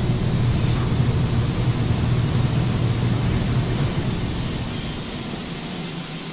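A vehicle running, heard as a steady low hum under hiss, with the hum fading away about four to five seconds in.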